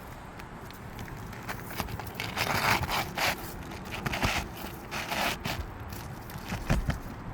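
Asphalt shingle scraping and rustling against the roof as it is pushed and worked into the slot, in several strokes of about half a second each, with a few sharp knocks near the end.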